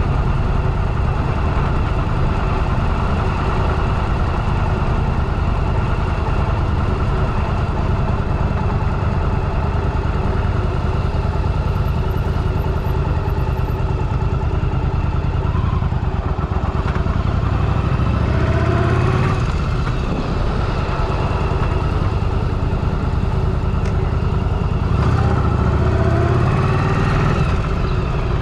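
Motorcycle engine running steadily at low revs, then revving up twice in the second half, its pitch rising each time as the bike accelerates.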